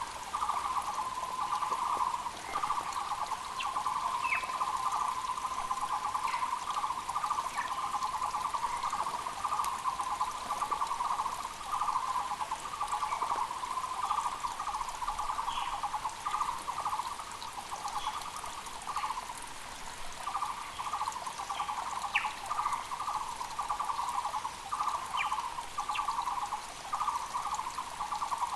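Taiwan barbets (Muller's barbets) calling in chorus: rapid runs of low, evenly repeated notes from several birds overlapping almost without a break. Short high chirps from smaller birds come through now and then, over the steady wash of a mountain creek.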